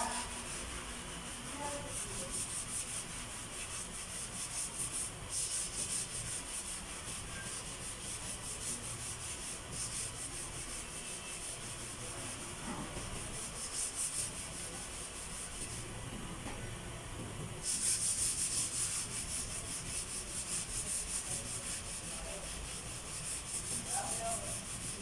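Abrasive sanding on a vehicle body panel: a rasping sound of quick, even strokes in spells with short pauses, louder over the last several seconds.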